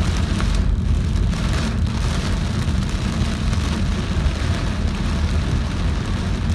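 Heavy rain falling on a moving car, a steady hiss over a constant low rumble of tyres and engine.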